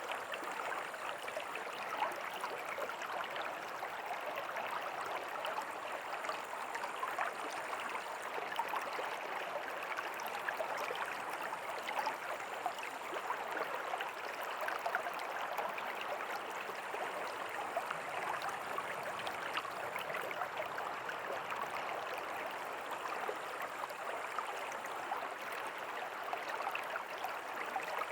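River water flowing steadily, a constant rushing and babbling with no pauses.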